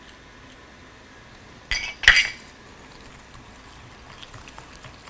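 Two sharp, ringing clinks of a metal utensil against a ceramic coffee mug about two seconds in, the second louder, followed by faint light ticking as the egg yolk is stirred in with a small wire whisk.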